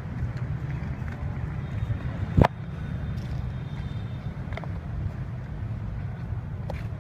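Steady low rumble with one sharp, loud click about two and a half seconds in, followed by a few faint light clicks.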